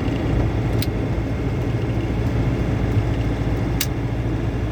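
Inside the cab of a GAZelle van with a Cummins diesel engine, driving: a steady low engine drone with road noise. Two sharp clicks come about three seconds apart.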